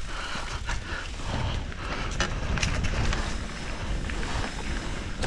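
Wind buffeting the microphone of a mountain bike on a trail descent, with scattered clicks and rattles from the bike over rough ground.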